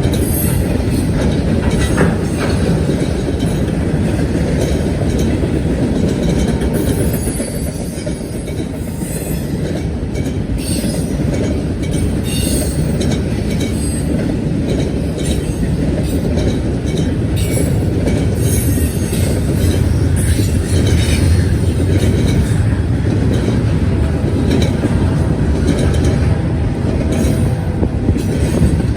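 BNSF freight train cars rolling past steadily, steel wheels on the rails making a continuous rumble with scattered clicks and rattles.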